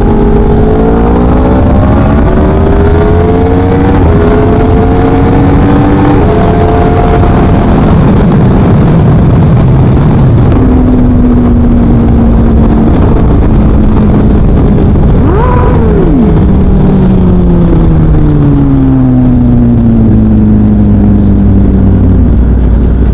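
A 2017 Yamaha R1 with a Leo Vince exhaust, ridden hard: the engine note climbs and drops back with each upshift through the first few seconds, holds steady for a while, and gives one quick rev blip about halfway. The note then falls away steadily as the bike slows.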